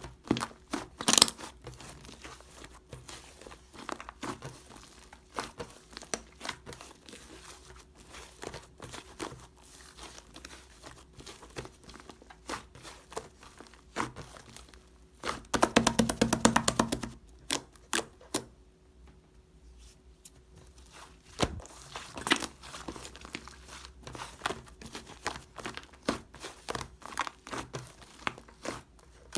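Slime being squished and stretched by hand, giving scattered sticky clicks and crackles of popping air pockets, with a fast run of dense clicking about halfway through.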